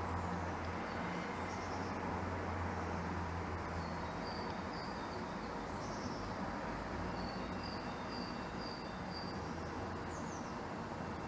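Steady outdoor background noise with a low hum, over which short high chirps come in runs of four or five, along with a few quick falling high notes.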